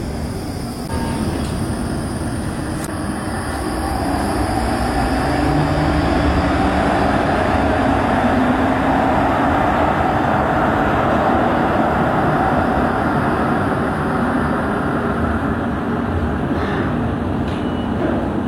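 Tram running on rails, a steady rumble that swells about four seconds in, with a motor whine rising in pitch for a few seconds.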